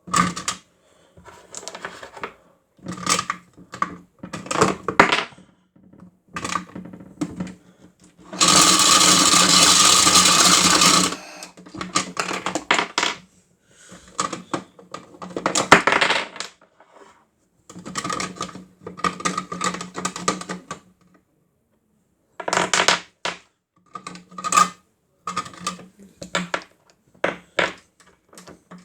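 Toy washing machine's small electric motor running in short bursts, its spinning drum tossing loose batteries that rattle and clatter against it. A louder, unbroken run of about two and a half seconds comes a little before the middle.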